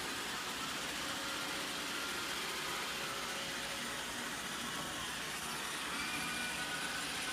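iRobot Roomba robot vacuum running, a steady motor-and-brush noise with a faint high whine.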